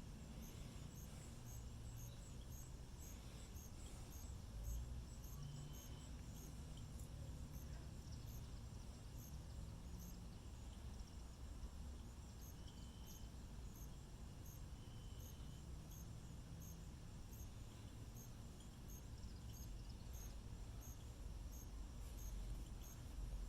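Faint insect chirping: a high chirp repeating evenly about two or three times a second, over a low rumble.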